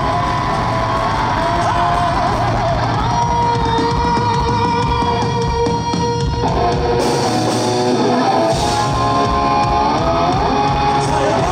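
A live rock band playing through a concert sound system: electric guitar lines, drum kit and singing. About six seconds in, the lowest notes drop out for a couple of seconds, then the band comes back in with cymbals.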